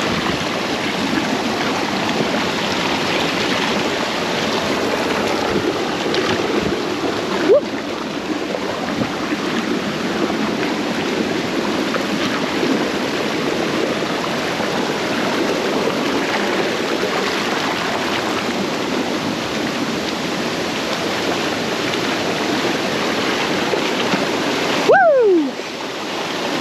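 Waterfall water rushing steadily. A brief rising tone sounds about a third of the way in, and a louder short falling tone near the end.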